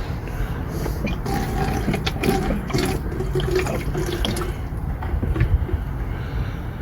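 Diesel fuel gushing and gurgling out of a freshly fitted fuel line into a bucket as the ZD30 diesel's fuel system is primed, with air bubbling through; the bubbling is loudest in the first half.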